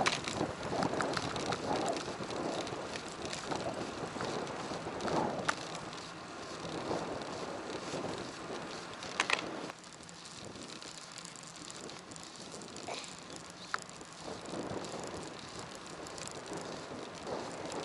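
Bicycle on the move, recorded on an action camera: tyre and road rumble with wind on the microphone, broken by occasional short clicks and rattles. The noise drops noticeably about ten seconds in.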